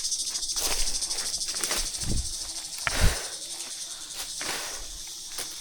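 Insect chorus outdoors: a steady, high, shrill buzz with a fast pulsing. Two dull knocks sound about two and three seconds in, the second the loudest.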